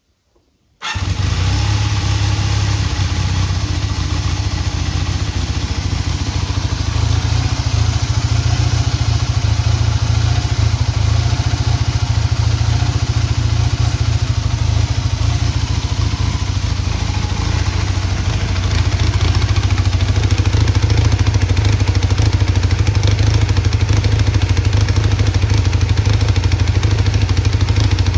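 Honda CB250T's air-cooled parallel-twin engine starting about a second in and then idling steadily, a little louder in the last third; it runs without abnormal noises, as the seller states.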